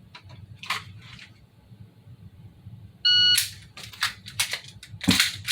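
A short electronic beep about three seconds in, followed by clicks and clacks of a plastic airsoft pistol being handled, with a sharper clack near the end.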